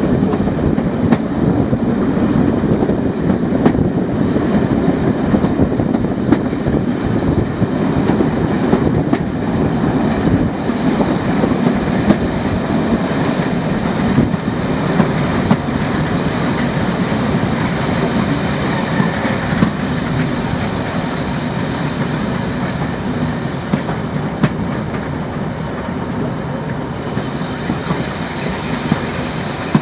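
Diesel train running along the track: a steady rumble of wheels on rails with scattered clicks over the rail joints and a faint high wheel squeal about twelve seconds in, the sound slowly getting quieter toward the end.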